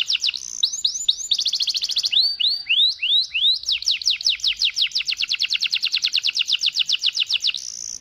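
Domestic canary singing a long rolling waterslager-style song: fast trills of repeated down-slurred notes, about seven a second. About two seconds in, the trill gives way to a few slower, separate slurred notes, then runs on and ends in a short held note near the end.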